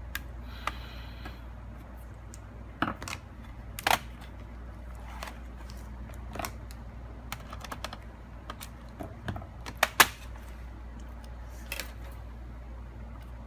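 Scattered sharp clicks and taps of small tools, screws and plastic parts on a laptop's plastic case during disassembly, the loudest near four and ten seconds in, over a steady low hum.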